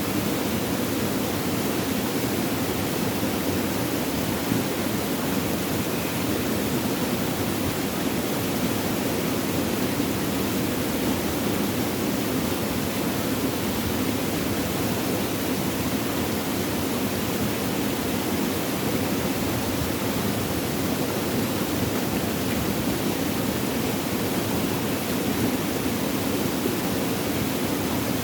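Flowing water rushing steadily, an even unbroken noise with no drips, thunder or other events.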